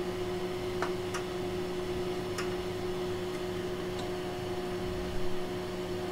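Steady electrical hum from running bench electronics, with a few faint light clicks scattered through it.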